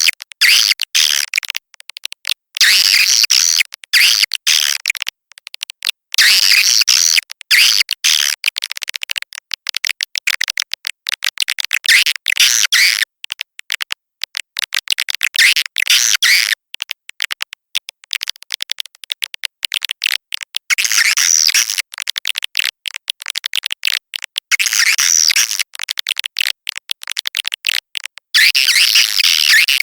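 Swiftlet lure call track: dense, rapid high-pitched chirping and twittering of swiftlets, coming in bursts of a second or two with short breaks between. It is the kind of call played from speakers in a swiftlet house to draw the birds in to nest.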